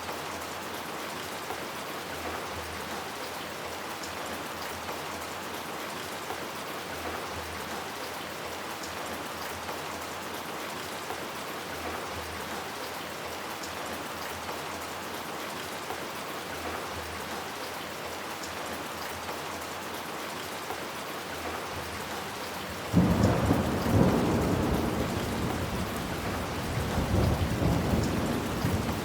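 Steady rain falling, then about 23 seconds in a sudden loud clap of thunder with a deep rolling rumble that fades and swells again near the end.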